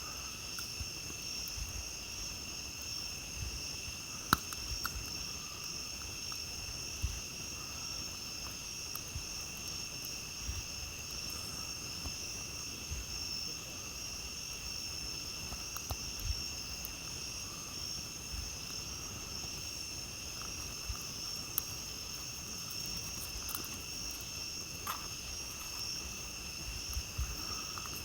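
A steady chorus of night insects trilling at two high pitches. Scattered sharp pops and crackles from a campfire, the loudest about four seconds in.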